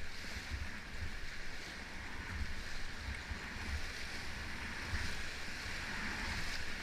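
Rushing river water heard from a raft: a steady, even hiss, with wind buffeting the microphone in irregular low bumps.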